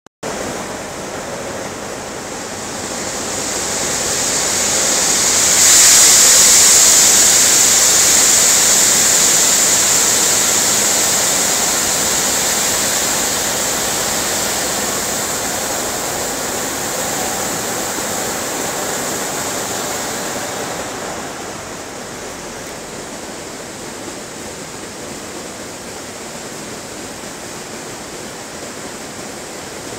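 Shelled corn kernels pouring in a steady rushing hiss, swelling to its loudest about six seconds in and easing down to a lower, even flow a little past twenty seconds.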